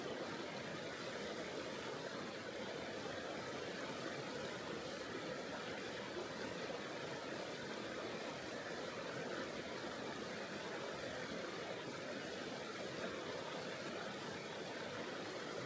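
Tonghou River water flowing, a steady, unbroken rushing noise.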